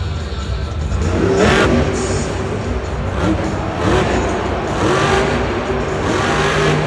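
Monster truck's supercharged V8 engine revving hard, the pitch climbing in about five separate bursts of throttle over a steady low rumble.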